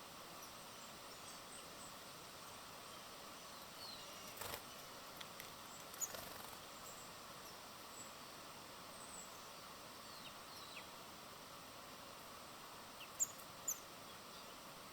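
Small birds chirping: scattered short, high chirps over a steady outdoor hiss, with a brief rustle about four and a half seconds in and two louder chirps near the end.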